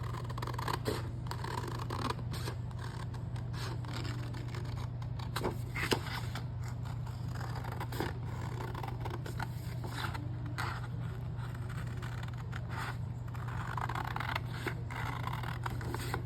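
Scissors cutting paper: irregular snips with the sheet rustling and scraping as it is turned, over a steady low hum.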